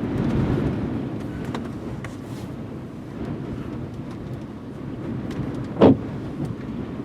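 Strong rear-flank downdraft wind buffeting the vehicle and microphone as a steady low rumble, with one sharp thump about six seconds in.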